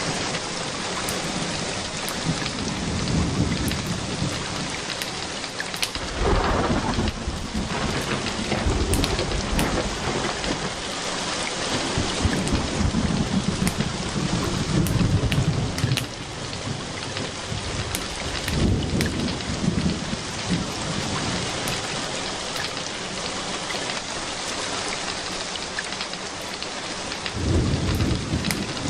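Steady rain falling, with rolls of thunder rumbling up and fading away several times.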